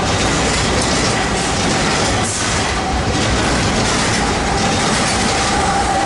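Freight train rolling past close by: a steady, loud noise of wheels on rail, with a faint steady tone.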